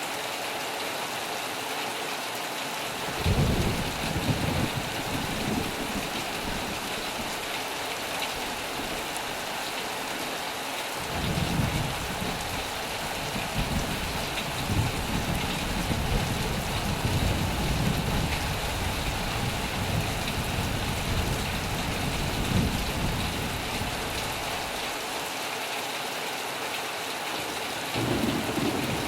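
Heavy rain falling steadily on a metal roof, with rolling thunder: a short rumble a few seconds in, a long one from about eleven seconds in that lasts over ten seconds, and another starting near the end.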